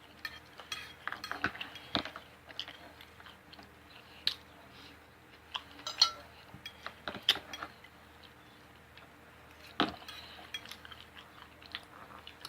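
Close-up mukbang eating sounds: wet chewing and mouth smacks, broken by a few sharper clicks and clinks of cutlery and dishes.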